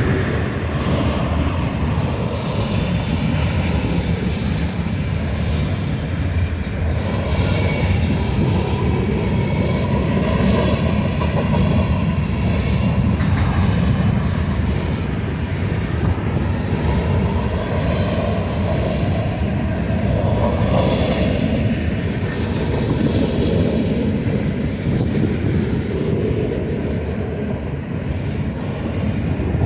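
Freight train cars rolling past, a steady loud noise of steel wheels on rail.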